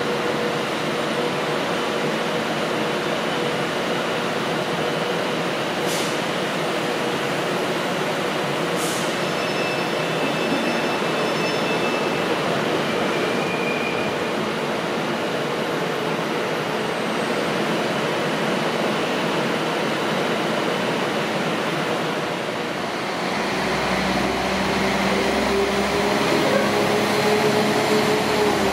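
Class 153 single-car diesel unit running through the junction, a steady train noise with a few faint thin squeals along the way. About 23 seconds in, the sound changes to the louder, lower engine throb of a Class 197 diesel multiple unit pulling out of the platform.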